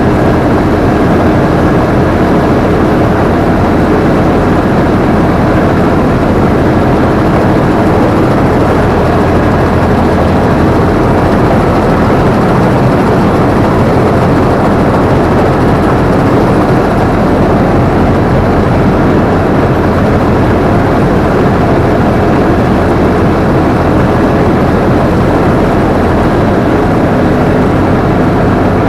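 Combine harvester running under load, its engine and threshing machinery making a loud, steady drone, heard close up from the operator's position.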